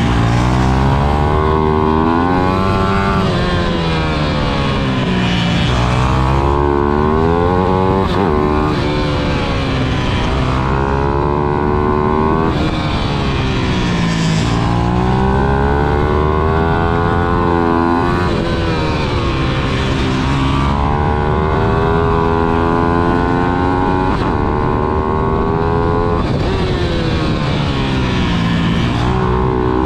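Stock 155cc GPX pit bike engine revving hard through a lap, its pitch climbing again and again and dropping sharply at each gear change and braking point.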